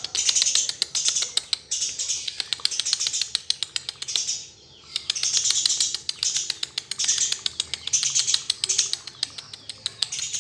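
Eurasian tree sparrow chattering: fast strings of high, ticking chirps in bouts, with a short break about four and a half seconds in.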